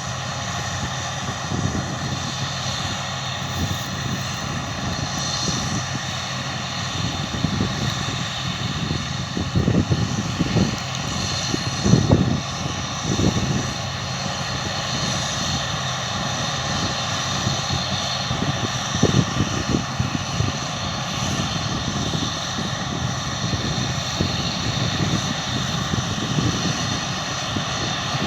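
Harvest machinery engines running with a steady drone, with several irregular louder low bumps around the middle.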